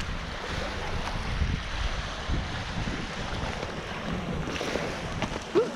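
Wind buffeting the microphone over lake water lapping, a steady rumbling hiss. A short rising sound cuts in near the end.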